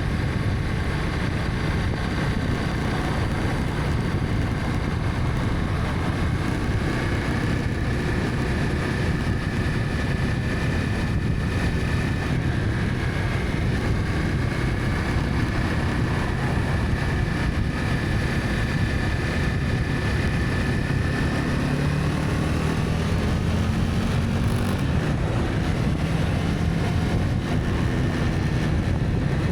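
Honda CB300F single-cylinder motorcycle running at a steady cruise, with wind noise over the microphone while riding.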